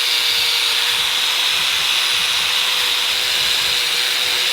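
Compressed air hissing steadily from a spray gun, a high, even hiss with a faint steady whistle beneath it.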